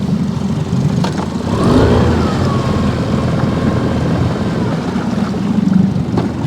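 Motorboat engine running on the river as a boat passes: a steady low hum with a higher whine that rises to its loudest about two seconds in, then drops in pitch and levels off.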